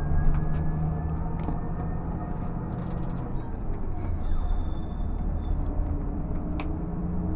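Scania bus running on the road: a steady low engine and road rumble, with a faint whine rising slowly in the first second or so and a few light clicks.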